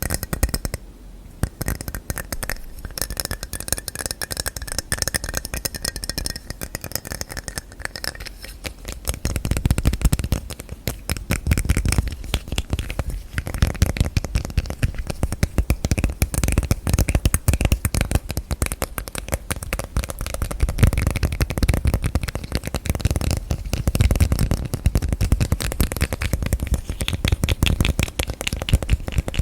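Rapid fingertip and fingernail tapping and handling of objects and their lids, a dense run of small clicks. In the first few seconds the taps carry a faint ringing; from about nine seconds in the tapping turns heavier and lower.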